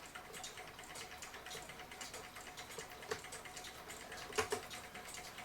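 Light irregular clicks and taps of small metal clock-case parts being handled, with a sharper click about three seconds in and a louder double click about four and a half seconds in.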